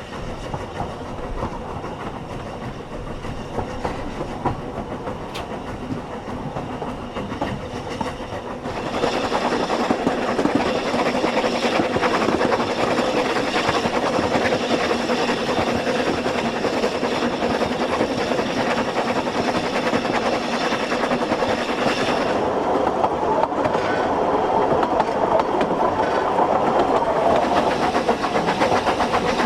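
Ffestiniog Railway narrow-gauge train running along the track, wheels clicking over the rail joints; the running noise grows clearly louder about nine seconds in and stays that way.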